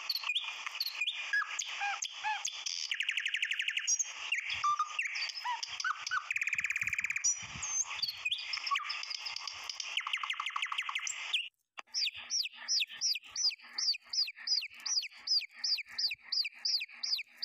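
Several birds chirping and trilling together. After a brief break about two-thirds of the way through, one bird repeats a short falling chirp about three times a second.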